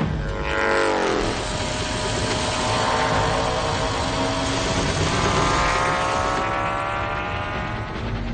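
Indian motorcycle engine running flat out on a speed run. Its pitch drops sharply in the first second, then climbs steadily for several seconds as the bike keeps accelerating.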